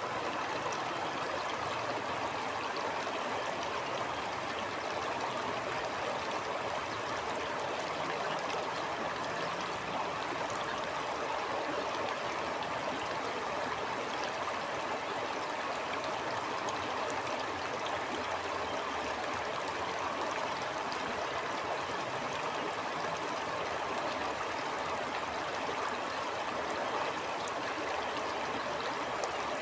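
A stream flowing steadily over rocks, a continuous rush and gurgle of water.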